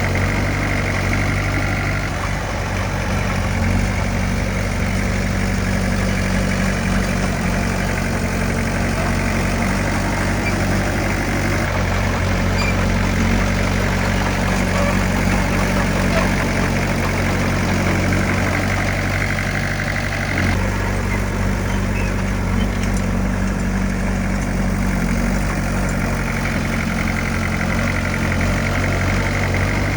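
Heavy diesel engine of earthmoving machinery running steadily, its note shifting slightly about twenty seconds in.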